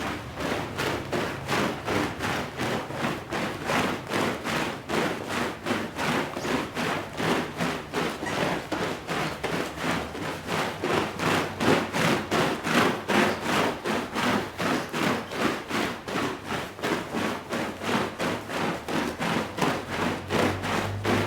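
Repeated scrubbing strokes of a brush on a wet, soapy shag rug, about three strokes a second, keeping an even rhythm throughout.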